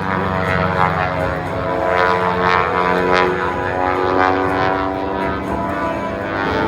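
Propeller airplane engine running in flight overhead, a steady drone with a stack of tones that drift slightly in pitch.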